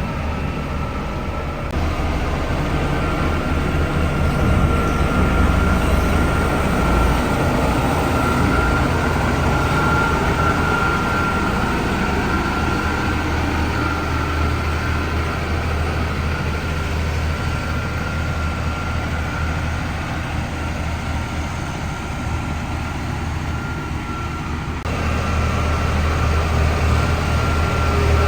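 Heavy diesel earthmoving machinery running steadily under load, a low engine drone with a thin steady whine over it; the sound steps up about two seconds in and again near the end.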